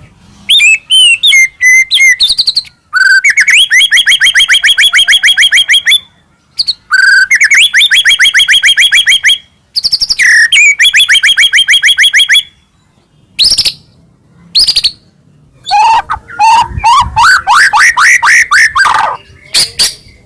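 White-rumped shama (murai batu) in full song: loud, fast runs of repeated whistled notes, each run lasting two to three seconds with short pauses between. Near the end comes a run of notes climbing steadily in pitch.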